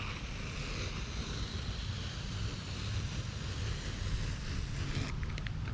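Steady hiss of background noise, like wind on the microphone, with a few light clicks about five seconds in.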